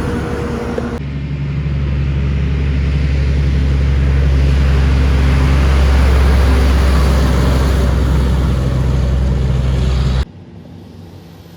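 Heavy truck's diesel engine running loud and steady as it passes close by, with a low drone and tyre and road noise. It cuts off abruptly about ten seconds in.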